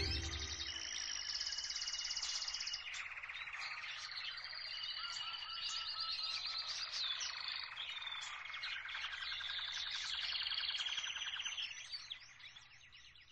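Several songbirds singing and calling at once, with overlapping trills and quick chirps; the birdsong fades out near the end.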